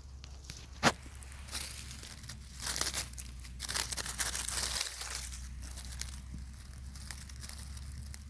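Dry fallen leaves crackling and rustling in irregular bursts as they are disturbed, with one sharp knock about a second in.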